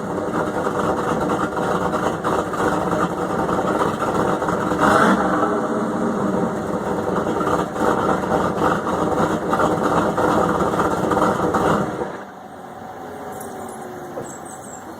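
GM 350 small-block V8 with headers and a cam, breathing through a Flowmaster muffler, idling with a brief rev about five seconds in. The engine sound stops abruptly about twelve seconds in, leaving only quiet background.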